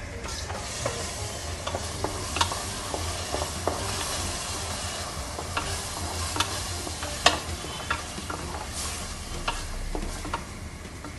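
Freshly ground masala paste sizzling in hot oil while a spoon stirs it, with scattered clicks and taps of the spoon against the metal pot, the sharpest about seven seconds in. This is the paste being fried to cook off its raw smell.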